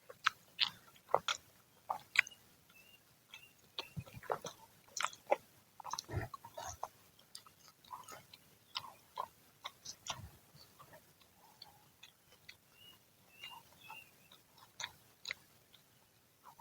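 Chewing and biting into crunchy, freshly fried Indonesian fritters (gorengan), with irregular sharp crunches and mouth clicks. The crunches are loudest in the first couple of seconds.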